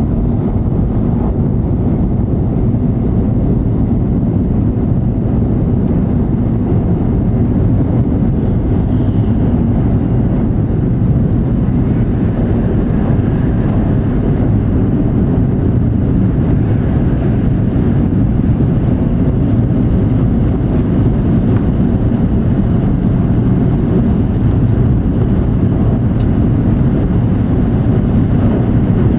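E7 series Shinkansen running at speed, heard from inside the passenger cabin: a steady, loud low rumble that holds even throughout.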